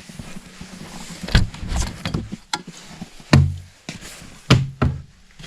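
Half a dozen sharp knocks and clunks at uneven intervals, some with a low thud, as of hard objects being handled and set down in a small room.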